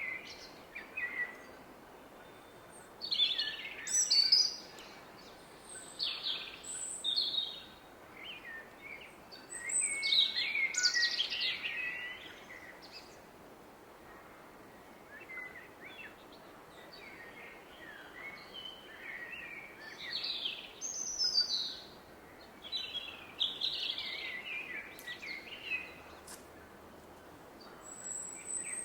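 Woodland birds singing and chirping in bouts, over the steady rushing of a distant river.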